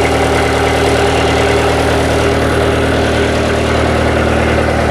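A 55-horsepower diesel tractor engine idling steadily, freshly started from cold on a portable jump starter after sitting unused for months.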